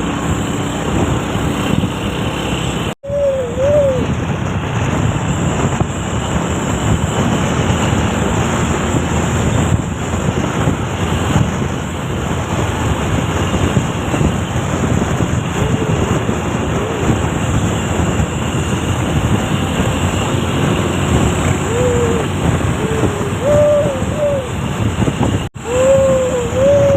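Steady, loud rush of road and engine noise from a heavily loaded truck on the move. Short warbling hoot-like tones come through just after the first of two sudden brief dropouts, and again several times near the end.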